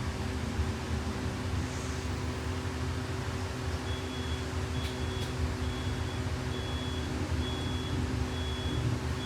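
Steady hum and low rumble inside a Blue Bird G5 electric school bus at a stop, with a fan-like whirr and two faint steady tones. About four seconds in, a high warning beep starts repeating evenly, a little more than once a second.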